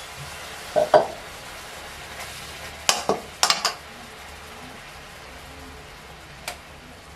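Minced chicken and chili paste frying in a wok with a steady sizzle. A knock about a second in comes from a clay mortar being set down. Short clicks around three seconds in and again near the end come from a sauce bottle being opened.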